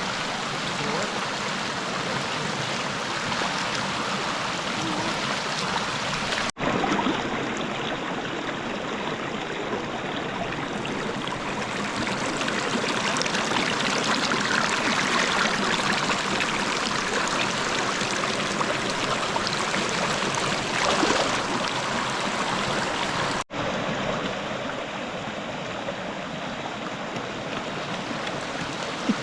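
River water running steadily, broken by two sudden brief dropouts where the footage is cut.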